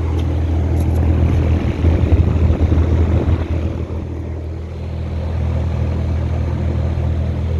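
Outdoor air-conditioner condenser unit running: a steady low compressor hum under the rush of the condenser fan, swelling louder and rougher for a second or two near the middle.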